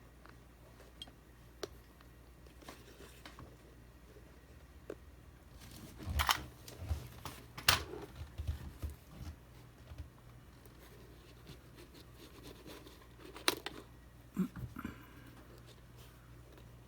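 Small sharp clicks and plastic handling noises of a wire-lace shoe dial being taken apart by hand, busiest near the middle, with a sharp click later on and a couple of soft knocks after it.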